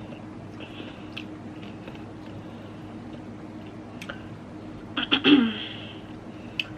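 Close-up eating sounds: chewing with small clicks and smacks over a faint steady hum, and a louder quick cluster of cracks and smacks about five seconds in.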